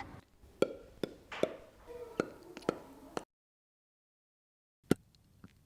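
A series of short, sharp clicks and plops, about six in three seconds, then dead silence, then a few more clicks near the end.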